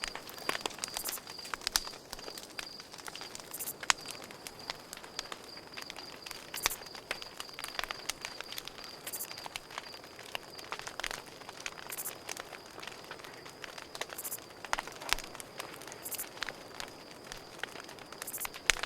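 Campfire crackling, with irregular sharp pops and snaps, over a steady high-pitched cricket trill.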